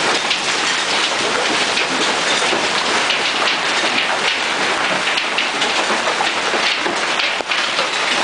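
Golf-ball-sized hail and heavy rain pelting the ground and surfaces: a dense, steady patter of countless hits.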